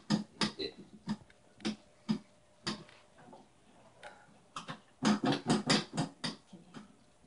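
Irregular sharp taps and knocks: a few scattered ones, then a quick run of a dozen or so starting about four and a half seconds in.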